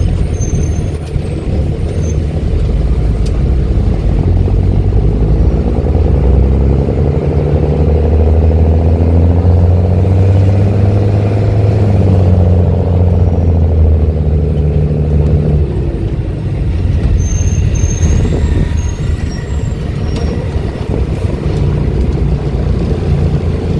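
Mercedes-Benz OH-1318 bus diesel engine running through an open, unsilenced exhaust, pulling under load. Its pitch climbs for several seconds, then drops about halfway through as it changes gear, and shifts again a few seconds later.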